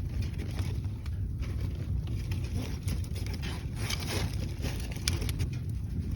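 A kindling fire burning in a fireplace: a steady low rumble with scattered crackles and snaps, which come more often in the second half.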